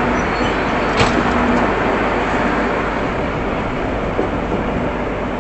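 Steady running noise of an express train, heard from inside an air-conditioned coach, with a single sharp click about a second in.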